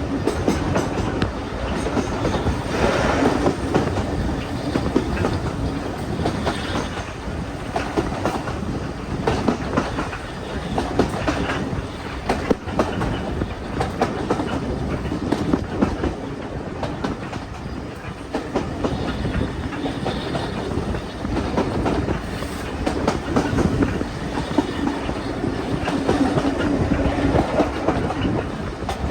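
Train running along the track: a steady rumble with the repeated clickety-clack of carriage wheels crossing rail joints.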